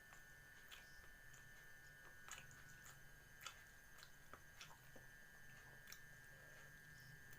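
Faint, irregular chewing and crunching clicks, a person eating, over a steady high-pitched drone.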